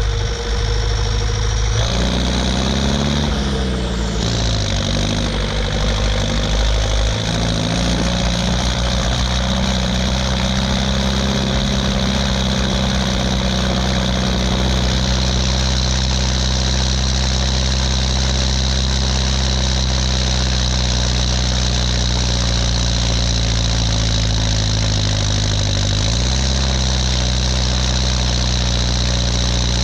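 Ursus 1014 tractor's four-cylinder turbodiesel running on a straight pipe while pulling loaded trailers. Engine speed dips and rises a few times in the first several seconds, runs steady, then picks up near the end.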